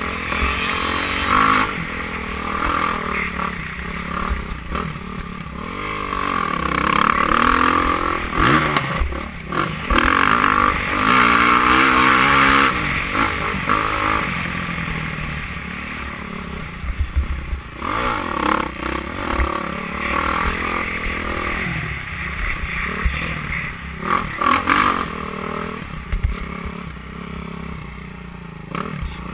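Motocross dirt bikes racing, engines revving up and down through the gears, the pitch rising and falling. The sound swells loudest about a third of the way through, then eases off.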